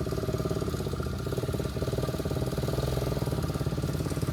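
Engine running steadily at low speed with a rapid, even pulse.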